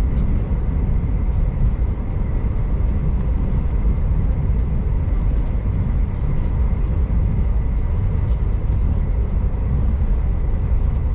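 Steady low rumble of a V/Line diesel passenger train running along the line, heard from inside the carriage, with a faint steady whine and a few light ticks.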